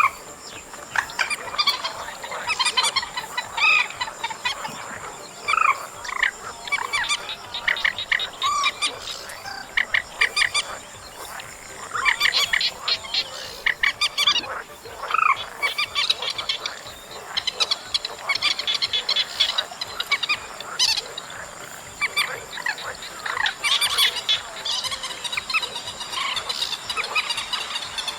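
Lure recording of trích ré calls (a rail-family marsh bird): quick series of short, repeated, croaking calls, coming in bursts with brief pauses between them.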